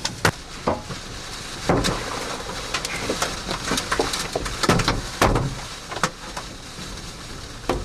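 Baseball-sized hailstones hitting the car's roof and body, heard from inside the cabin: loud, irregular bangs, several a second, over a steady hiss of falling hail, hard enough to knock the roof lights loose.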